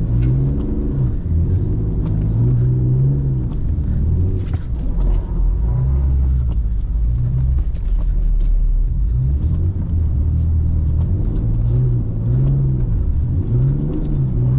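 BMW E39's engine heard from inside the cabin while driving through snow, its revs rising and falling again and again, with scattered light clicks.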